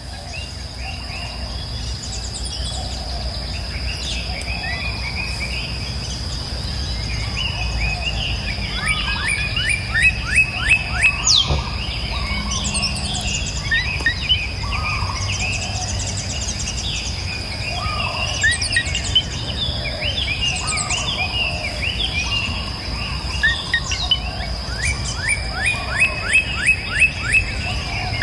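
Several birds chirping and calling over a steady high-pitched insect drone and a low rumble. Twice, about ten seconds in and again near the end, a run of rapid repeated chirps stands out as the loudest sound.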